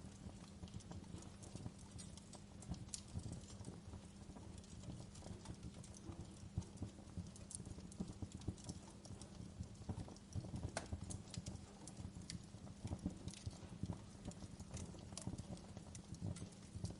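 Wood fire burning in a fireplace: irregular sharp crackles and pops from the logs over a low, steady rumble of flame.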